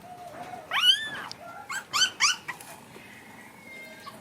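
A puppy yelping: one longer, high whining yelp about a second in, then three short high yelps in quick succession.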